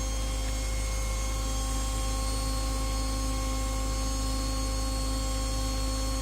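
A steady hum with a deep low rumble, several fixed tones above it and a hiss.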